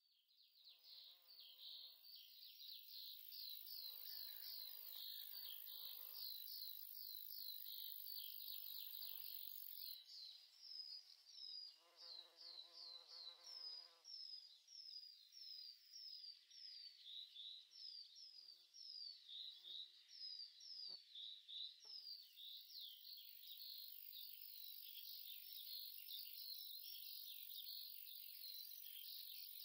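Faint, rapid high-pitched chirping: many short descending chirps a second, with a few brief low tones now and then.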